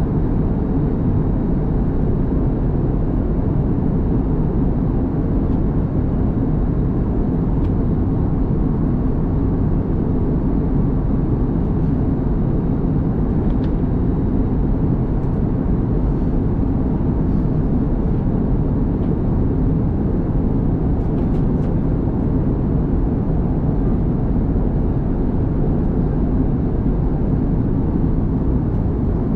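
Steady cabin drone of an Airbus A321neo in flight: a constant low rumble of engines and airflow, with a faint steady hum and a few faint ticks.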